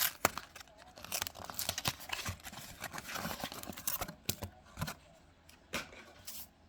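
Trading card booster pack wrapper torn open and crinkled by hand: a dense run of sharp crackles that thins out over the last second or two.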